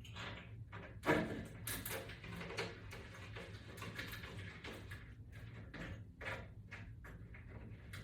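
Hardware being handled while a toggle bolt is fitted: faint small clicks and scrapes, with one louder knock about a second in.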